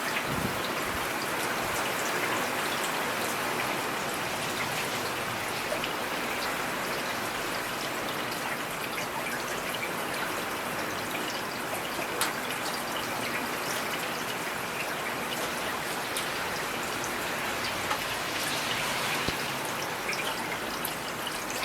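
Steady rain, with the patter of individual drops hitting a surface.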